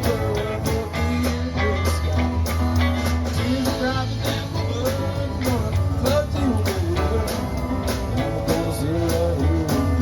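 Live country-rock band playing an instrumental passage: a lead line with bending notes over a steady bass and a regular drum beat.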